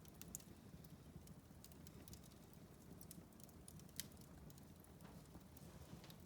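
Wood fire crackling in a fireplace: faint, irregular pops and snaps over a low, steady rumble of the flames, with one sharper pop about four seconds in.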